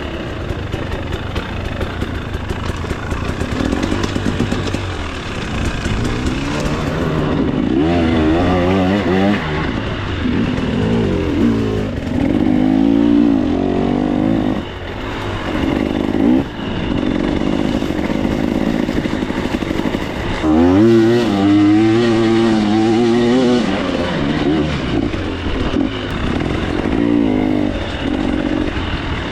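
KTM 300 XC-W 300cc single-cylinder two-stroke dirt bike engine, ridden hard on a trail. The revs rise and fall constantly as the throttle is worked, with strong surges about eight seconds in and again about twenty seconds in.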